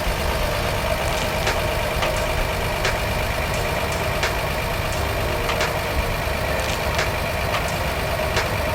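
Stock Nissan L20A straight-six idling steadily through its standard muffler.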